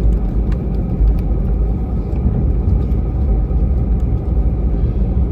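Steady low rumble of an Airbus A320 heard from inside the passenger cabin, with a few faint light rattles.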